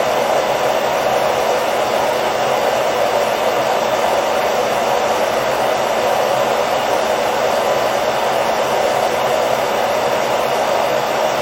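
Hair dryer running continuously, a steady unchanging rush of air and motor noise, played as white noise to lull a baby to sleep.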